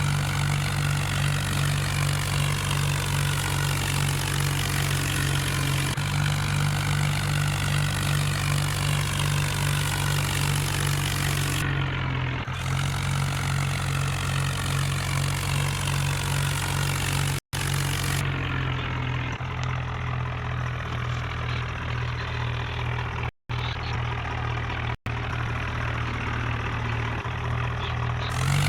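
Tractor engine running steadily at a constant speed, its low hum unchanging, with three very brief dropouts in the sound partway through.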